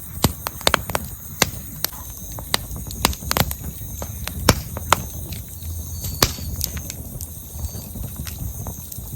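Campfire of burning firewood crackling, with sharp irregular pops and snaps, several a second, over a low rumble of flame.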